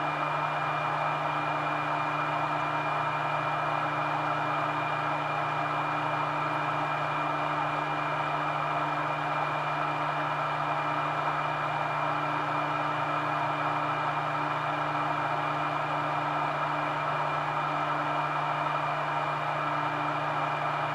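Yihua 8858 hot-air rework gun's blower fan running steadily at full airflow: an even rushing whir with a constant hum and a thin high whine.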